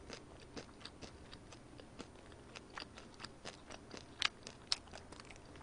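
Close-miked chewing of a mouthful of boiled pork: faint, irregular wet mouth clicks and smacks, with two louder ones a little after four seconds in.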